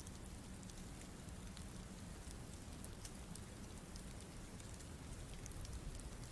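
Faint steady outdoor hiss and low rumble, with scattered light ticks throughout.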